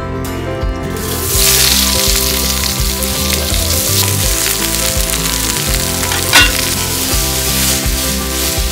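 Onions, garlic, chili and mushrooms sizzling and frying in hot oil in a cast iron pot over campfire coals. The sizzle starts about a second in as the food hits the oil, and a sharp clink comes about six seconds in while it is stirred.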